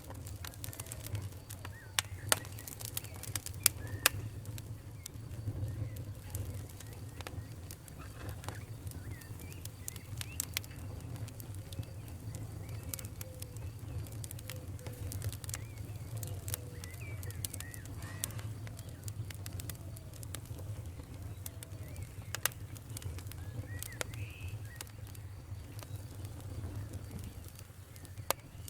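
Wood fire burning in a fireplace: steady crackling with sharp pops, several of the loudest a few seconds in, over a low steady rumble, with faint short whistles here and there.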